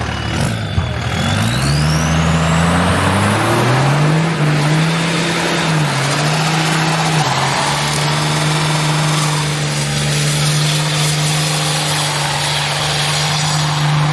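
Car engine revving up, its pitch climbing over the first few seconds, rising and dipping a few times, then held steady at high revs through the second half.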